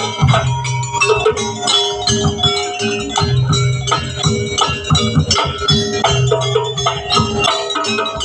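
Live East Javanese jaranan music: a driving, loud ensemble of drums and ringing metallic gong-and-bell percussion over a steady held note.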